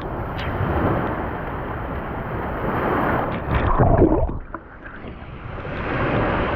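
Ocean surf and water sloshing close to the microphone, swelling to a louder splash about four seconds in, then briefly muffled and quieter before the wash of water comes back.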